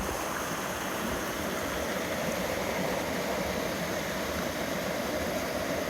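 Steady rush of a creek's flowing water, an even, unbroken noise.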